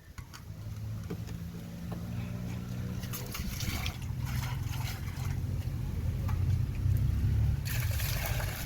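Water poured and splashing as a clay water pot is rinsed out, in two spells, about three seconds in and again near the end, over a low steady rumble.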